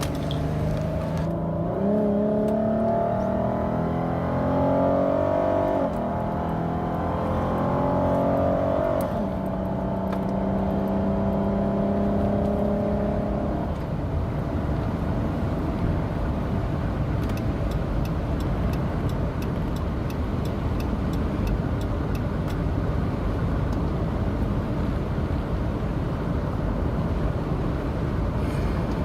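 A car's engine accelerating through the gears: its pitch climbs and drops back at two gear changes. After about halfway it settles into steady road and wind noise at cruising speed.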